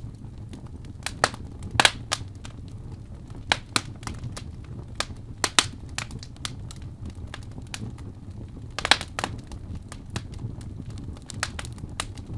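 Fire in a fireplace crackling: scattered sharp pops and cracks at irregular intervals over a steady low rumble of flame.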